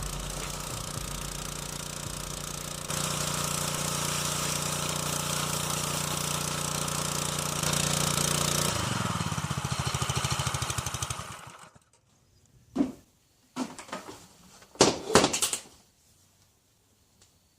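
Honda pressure washer's small gas engine running steadily, then shut off and winding down to a stop about eleven seconds in, followed by a few short knocks.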